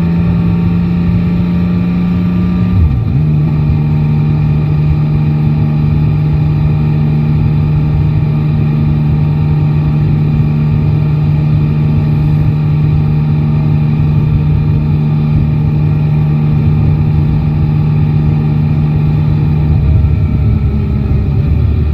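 Yamaha Tracer 9 GT's inline three-cylinder engine running steadily under way. Its note dips briefly about three seconds in, then holds steady, and drops lower near the end.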